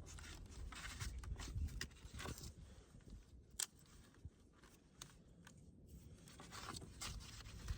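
Faint rustling and scattered small clicks of hands positioning a prop to hold a PEX pipe away from the floor, with one sharp click about three and a half seconds in.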